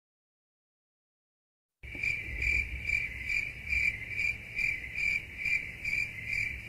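Silence for about two seconds, then a cricket chirping in an even rhythm, a little over two high chirps a second. This is the stock crickets sound effect used in vlogs to mark an awkward silence.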